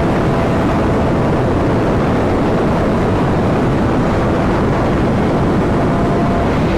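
Steady rushing wind and road noise of a vehicle travelling at speed, even throughout, with a faint steady whine.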